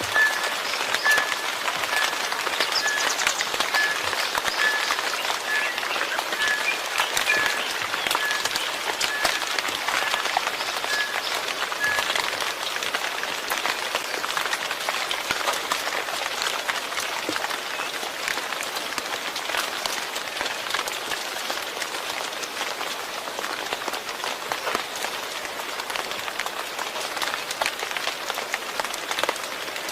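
Steady rain falling, with individual drops ticking through the hiss. A short high note repeats about twice a second through roughly the first twelve seconds, then stops.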